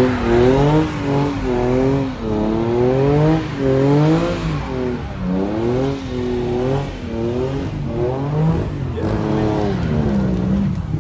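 Car engine revved hard, its pitch rising and falling over and over about once a second.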